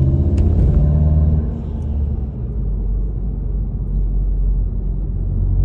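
VW GTI's 2.0-litre turbo four through an AWE Touring catback exhaust, heard from inside the closed cabin: a steady deep exhaust tone under throttle, with a couple of sharp clicks near the start. About a second and a half in the engine comes off throttle and the sound drops to a lower, rougher rumble.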